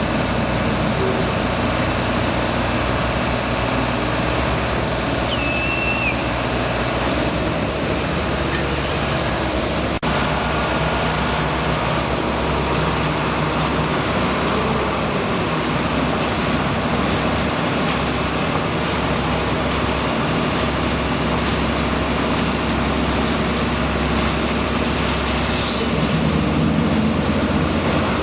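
Steady low engine rumble with a continuous hum, and a brief high chirp about five seconds in.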